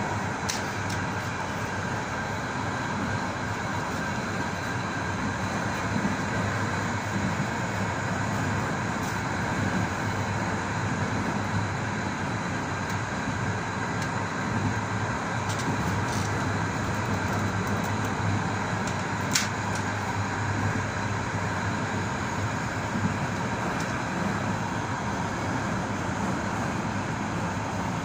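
Passenger train carriage running at speed, heard from inside the last carriage: a steady rolling rumble of wheels on rail, with a few brief sharp clicks scattered through it.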